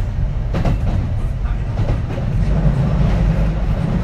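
Kintetsu 3220 series electric train running at speed: a steady low rumble of wheels on rail with a couple of light wheel clacks over rail joints.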